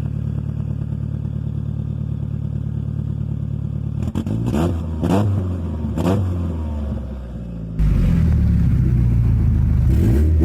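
Engine running through a temporary, makeshift exhaust: it idles steadily, is revved three times in quick succession about halfway through, then runs on louder and deeper near the end. It sounds a lot quieter than an open exhaust but still tough.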